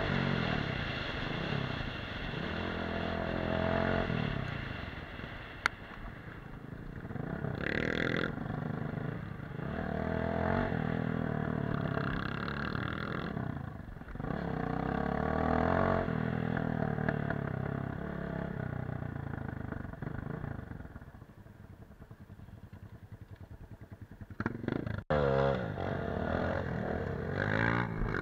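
Off-road motorcycle engine revving up and down again and again while riding. It eases to lower, quieter running about three quarters of the way through, then picks up sharply near the end.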